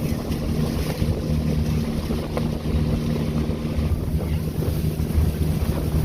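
Wind buffeting the microphone out on the water, a steady low rumble, with a faint steady low hum under it that fades out about halfway through.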